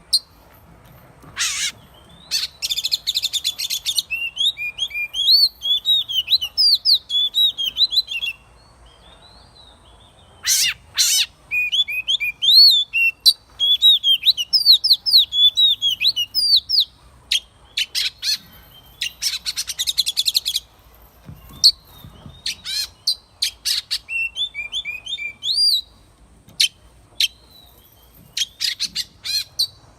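Oriental magpie-robin singing its wild forest-type song: fast runs of varied whistled notes that swoop up and down, mixed with harsh scratchy notes. The song pauses briefly about a third of the way in and again a little past the middle, and thins to scattered short notes near the end.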